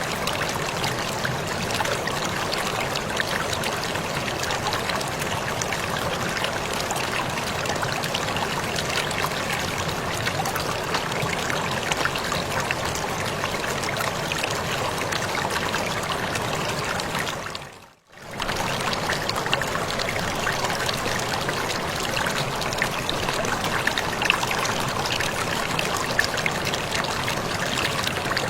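Waterfall: steady rushing, splashing water with fine crackle. About two-thirds through it fades out to near silence for a moment and fades straight back in.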